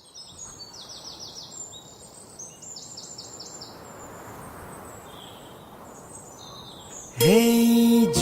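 Wild birds singing over a steady rushing background noise: quick falling whistled notes in two rapid runs of four or five, with scattered chirps between. About seven seconds in, music comes in loudly, a note sliding up into a held tone.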